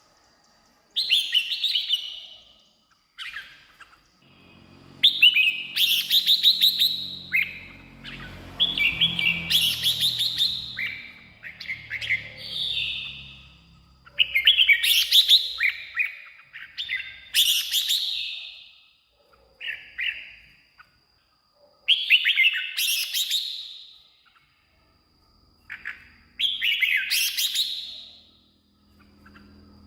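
Red-whiskered bulbul singing short, bright whistled phrases again and again, a new phrase every two to four seconds.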